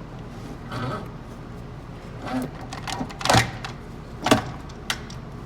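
Metal transmission parts clunking and scraping as an assembly is worked down into the gearbox case. There are about five knocks, the two loudest around three and four seconds in.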